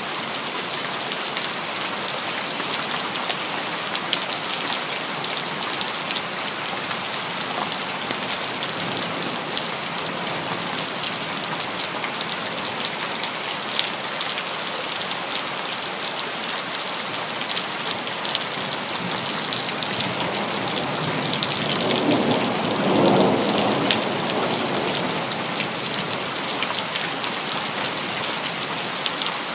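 Steady heavy rain falling, with the patter of individual drops throughout. About three quarters of the way through, a low roll of thunder swells and fades over a few seconds.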